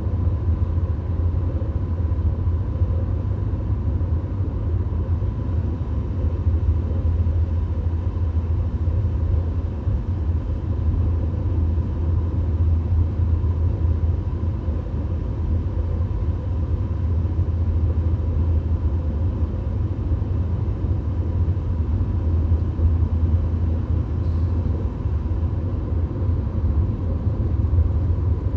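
Steady road and engine rumble heard inside a VW Golf cruising at highway speed, mostly deep, with a faint steady high tone over it.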